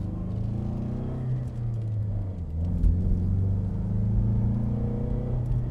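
EcoBoost Mustang's 2.3-litre turbocharged four-cylinder heard inside the cabin through a CVF 3-inch stainless catted downpipe and aftermarket exhaust, pulling at about 2,500 to 3,000 rpm. The engine note dips in pitch about a second in and then climbs again, with a single brief knock just before the rise.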